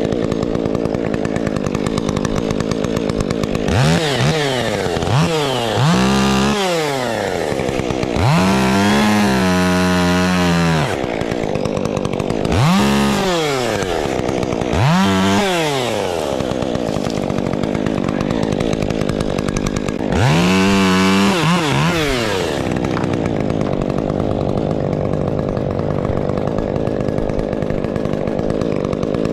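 Chainsaw running steadily and revved up about six times, each rev rising and falling back to a lower pitch, as it cuts wind-damaged wood into pieces.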